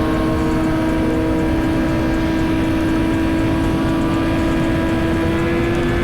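Suzuki GSX-R1000 inline-four engine running at a steady highway cruise, its pitch rising slightly near the end as the bike speeds up a little.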